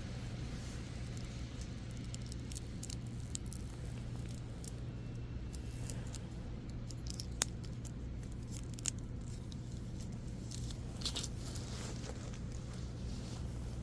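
Steady low electrical-sounding hum, with scattered small clicks and rustles as of things being handled.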